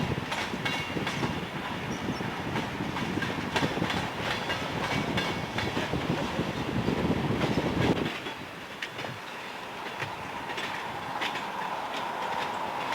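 Train cars rolling past, wheels clicking over rail joints with a heavy rumble. About two-thirds of the way through the rumble drops off, and a steady high ringing tone grows louder near the end.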